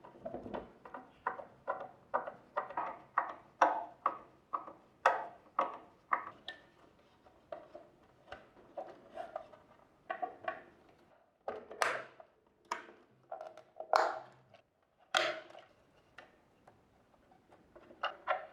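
Plastic parts of a De'Longhi Nespresso capsule machine being handled and fitted back together: a run of irregular clicks and knocks, two or three a second, with a few louder knocks after the middle.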